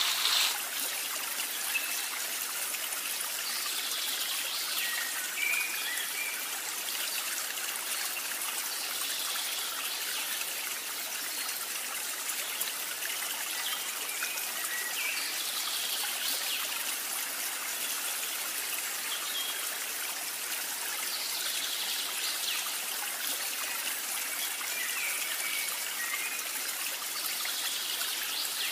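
Ground chili and garlic paste frying in hot oil in an aluminium wok, a steady sizzling hiss as the sambal is sautéed until fragrant.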